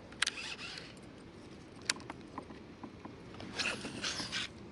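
A baitcasting reel and line during a cast of an Alabama rig: a short zipping rasp of line, a sharp click about two seconds in, then another longer rasp near the end.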